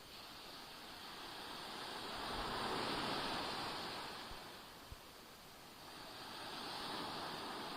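Small Black Sea waves splashing and washing onto the shore, the surge swelling twice: about three seconds in and again near the end. Two faint low thumps come between the surges.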